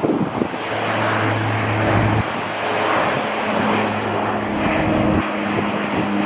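Aircraft engines running loudly as an airliner passes close on the runway: a dense steady roar with low humming tones that shift in pitch about halfway through.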